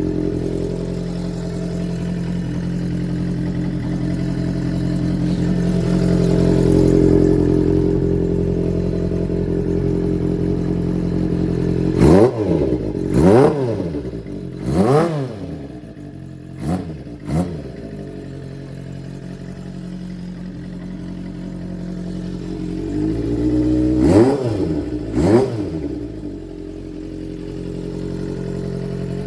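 Kawasaki Zephyr 400's air-cooled inline-four engine idling steadily, with the throttle blipped in quick rev-ups that rise and fall back to idle: a cluster of about five, then two more a few seconds later.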